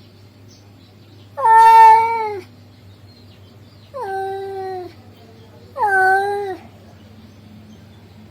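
Male cat yowling to call a female, three drawn-out calls about a second each. Each call starts high, drops and holds, then trails down; the first is the loudest.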